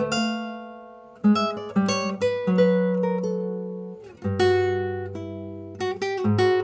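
Acoustic guitar music: plucked notes that ring and fade, with a fuller chord struck about a second in and another just past the middle.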